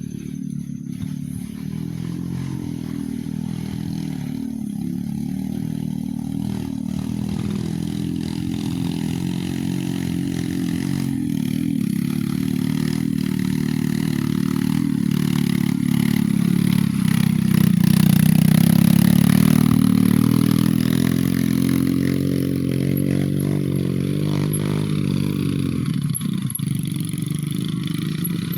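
A vehicle engine labouring under load on a steep climb, growing louder to a peak about two-thirds of the way through and then easing off.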